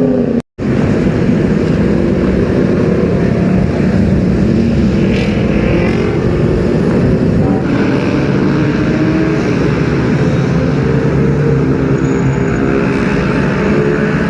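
Superbike engine running loudly with a steady, low engine note. The sound drops out for an instant about half a second in.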